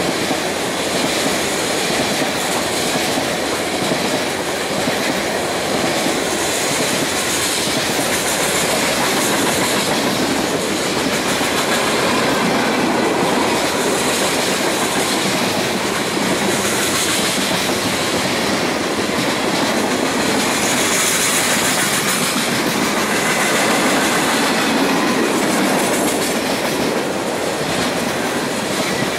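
Freight train of tank cars rolling past: a steady noise of steel wheels running on the rails, its higher part swelling and fading every few seconds.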